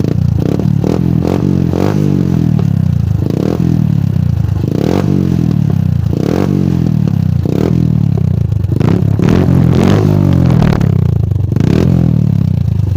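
150Z motorcycle's single-cylinder engine running through an Akrapovič-replica exhaust with its silencer insert removed, blipped on the throttle again and again, about once every second or so, dropping back to idle between revs.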